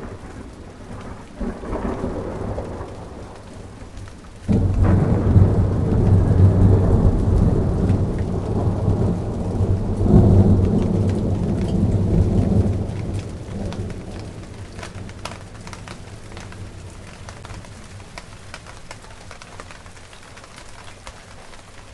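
Steady rain falling, with a long roll of thunder that breaks in suddenly about four seconds in, swells again near the middle and rumbles away, leaving the rain alone.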